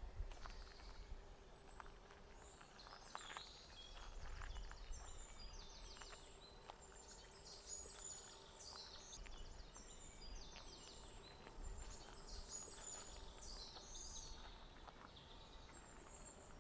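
Forest songbirds singing, several overlapping high songs with rapid trills, over a faint low rumble.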